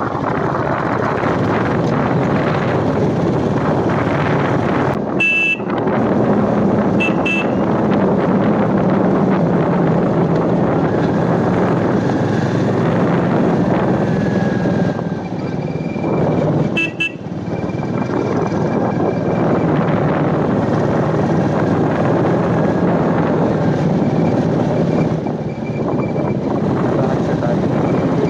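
Royal Enfield Meteor 350's single-cylinder engine running steadily at road speed, under heavy wind rush. Short horn beeps sound about five seconds in, again about two seconds later, and near the middle.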